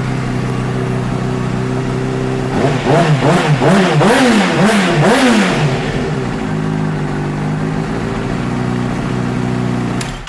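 2007 Honda CBR600RR's inline-four engine idling steadily, then revved in several quick throttle blips a few seconds in before settling back to idle. The engine sound cuts off near the end.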